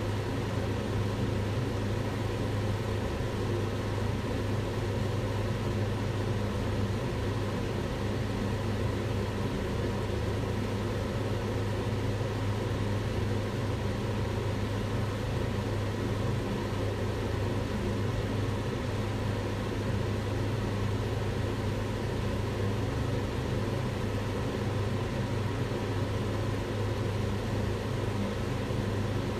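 Kitchen range hood extractor fan running steadily: a constant rush of air with a low motor hum.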